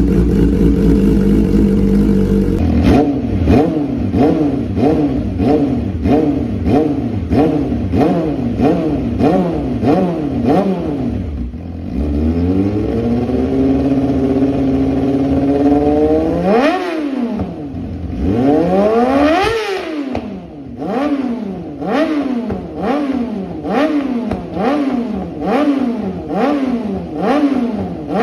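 Yamaha R6 inline-four sport bike with an SC Project aftermarket exhaust, being revved. It runs steadily for a couple of seconds, then is blipped repeatedly in quick rising-and-falling revs. About halfway through it climbs more slowly to two high-rev peaks before the quick blips resume.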